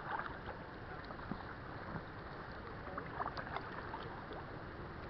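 Kayak paddle strokes: a few short splashes and drips as the paddle dips in, clustered about three seconds in, over a steady background hiss of moving water.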